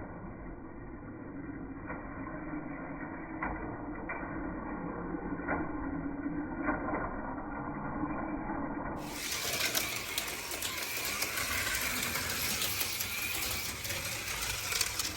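HO scale slot cars running on a plastic track: a steady electric motor whir with scattered clicks and knocks. About nine seconds in, the sound turns brighter and hissier.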